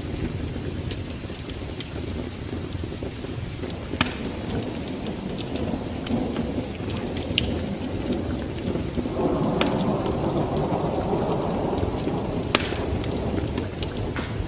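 Wood fire crackling in a fireplace: a low steady rumble of flames with scattered sharp pops, the rushing sound filling out about nine seconds in.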